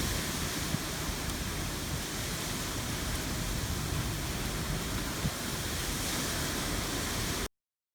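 Steady rushing wind noise with a fluttering low rumble and a couple of faint low thumps. It cuts off abruptly to silence near the end.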